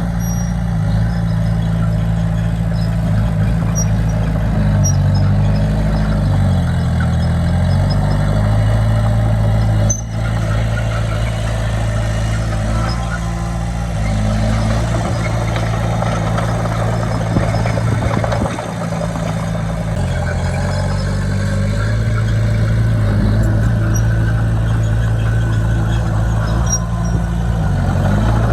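Heavy diesel engine of earthmoving machinery running steadily, its pitch dipping and recovering about four times as it takes and sheds load.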